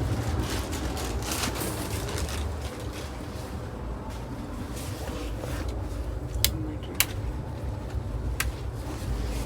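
Low, steady rumble of a train, with three sharp clicks in the second half.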